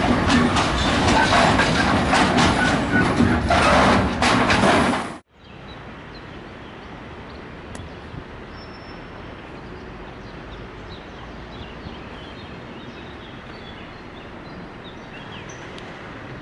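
A train passing close by at a station, its wheels clattering over rail joints in a loud run of knocks. About five seconds in, the sound cuts off abruptly to a quiet outdoor background with a few faint high chirps.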